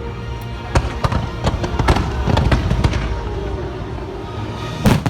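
Fireworks bursting in a rapid string of cracks and bangs over the first three seconds, with one loud bang near the end.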